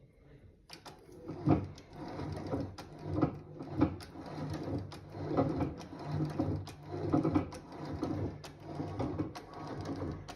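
Antique sewing machine running, its mechanism clattering with a steady hum and repeated clacks. It starts up about a second in.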